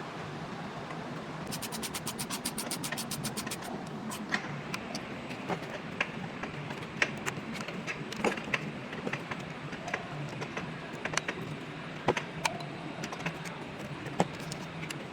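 Workshop mechanical noise: scattered metallic clicks and clinks of hand tools and parts over a steady low hum. About a second and a half in, a fast, even run of clicks rattles for roughly two seconds.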